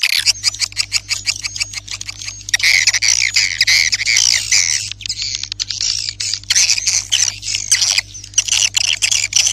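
Recorded swiftlet call: dense, rapid high twittering and clicking chirps of swiftlets, the lure sound played to call swiftlets into a nesting house. A steady low hum runs underneath.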